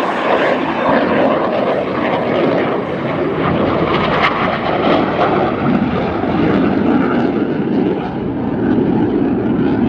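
Jet engines of Blue Angels F/A-18 Super Hornets sounding loud and steady as two jets fly the opposing knife-edge pass.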